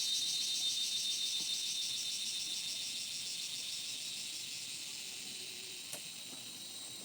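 High-pitched insect chorus buzzing in a dense rapid pulse, slowly fading, with a faint click about six seconds in.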